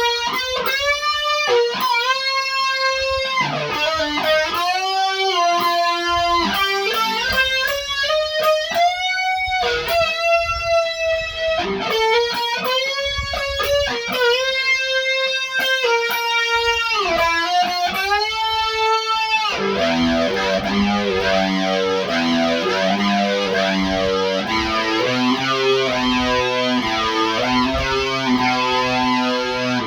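Electric guitar (Fender Stratocaster) through a Big Muff fuzz pedal and an Electric Lady flanger, with a fuzzy, sustaining lead tone. For the first two-thirds it plays long held notes with string bends. About 20 seconds in it switches to a quicker repeating picked figure.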